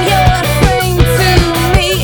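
Rock band playing: electric guitar and bass over a steady drum beat of about two to three hits a second.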